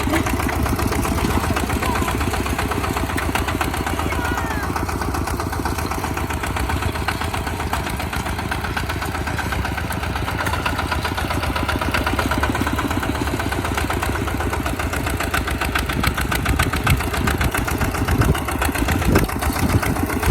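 Small tractor engine running steadily with a fast, even chugging, with a few louder knocks near the end.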